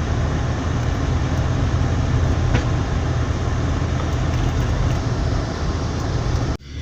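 A car driving: a steady low rumble with road noise, which cuts off abruptly near the end.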